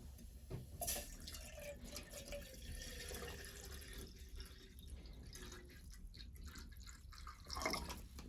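Faint water trickling and dripping, with scattered small clicks and knocks, and a louder falling swish near the end.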